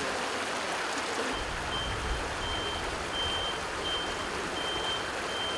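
A vehicle's reversing alarm beeping evenly, about one beep every 0.7 seconds, starting about a second in together with a low engine rumble, over a steady rush of water.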